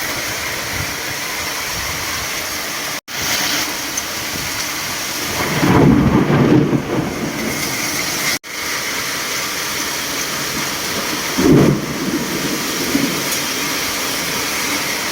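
Tropical storm of heavy rain and strong wind, a steady rushing noise. It swells into louder low rumbles twice, about six and twelve seconds in, and cuts out sharply for an instant twice.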